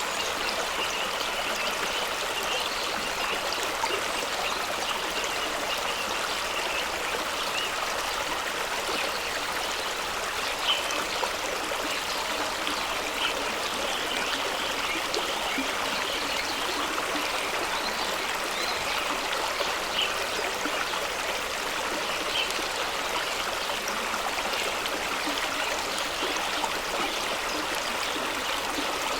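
Fast-running stream rushing and splashing over rocks, a steady rush of water with small splashes now and then.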